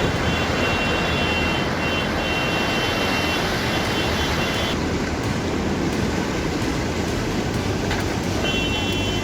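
Heavy downpour and surging floodwater: a loud, steady rushing noise, with faint high thin tones over it in the first half and again at the very end.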